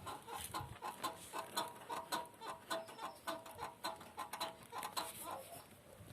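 Rear brake mechanism of a VW Tiguan squeaking as the back of the car is rocked with the handbrake applied. About three short squeaks a second, one with each rock, fading near the end. The squeak comes only while the handbrake is on.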